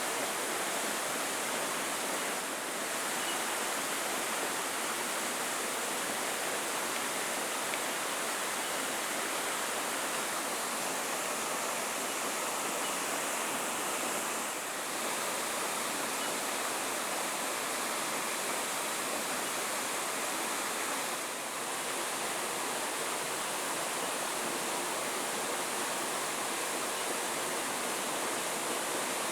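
Waterfall rushing: a steady, even wash of falling water, with brief slight dips in level three times.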